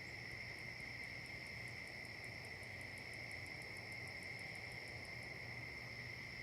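Insect chorus with a steady, high-pitched trill, joined by a rapid series of very high ticks, about six a second, that starts just after the beginning and stops about five seconds in.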